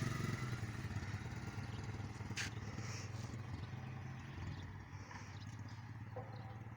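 Motorcycle engine running and fading steadily as the bike rides away, with a single sharp click about two seconds in.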